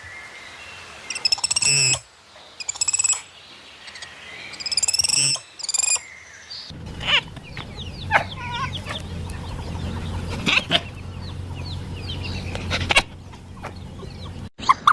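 Farm birds calling: chickens clucking and chirping, in short bursts at first and then as many quick overlapping chirps.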